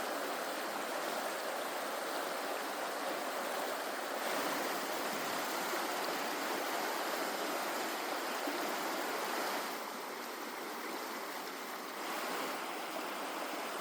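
Flowing river water, a steady rush with no bird song or voices over it; its level and tone shift slightly about four, ten and twelve seconds in.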